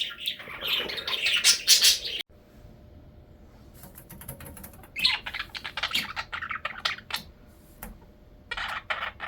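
Small pet birds chirping and chattering in quick high bursts, with sharp clicks in between. The sound cuts off abruptly a little after two seconds in, goes quiet, and the chirping picks up again about halfway through.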